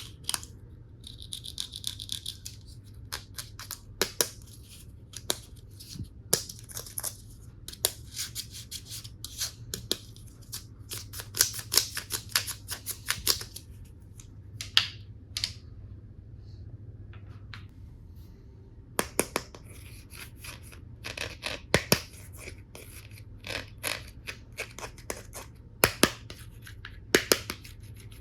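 Hard plastic toy tool pieces being handled: a long run of sharp clicks and taps, some in quick clusters, with a scratchy rubbing sound about a second in and a quieter pause just past halfway.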